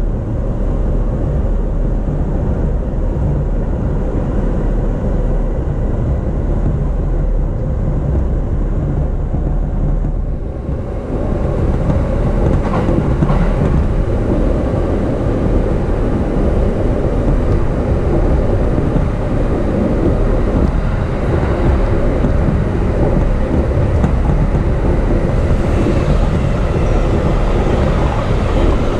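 E233-series electric train running, heard from inside the car: a steady rumble of wheels on rail. About ten seconds in it dips briefly, then comes back louder and brighter.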